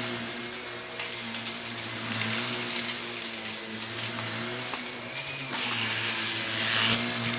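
Vacuum cleaner running with a steady motor hum while sucking up crunchy debris, which rattles and crackles through the machine in stretches about two seconds in and again near the end.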